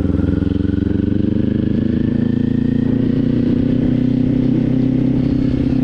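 Motorcycle engine running steadily while riding, heard from the rider's helmet camera. The note shifts about a second in, then holds and climbs slowly.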